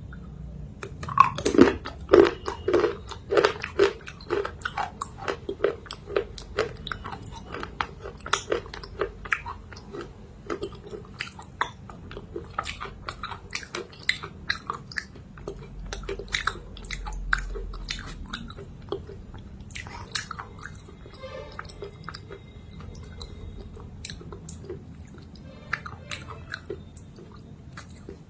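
A person biting and chewing thick black clay-chalk paste close to the microphone: sticky, crunchy clicks in a steady chewing rhythm of about three a second, loudest in the first few seconds and sparser in the second half.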